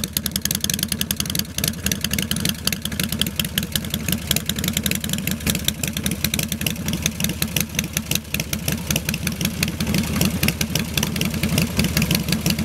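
Harley-Davidson Heritage Softail's V-twin engine idling through long chrome exhaust pipes with an uneven, loping beat, getting a little louder toward the end.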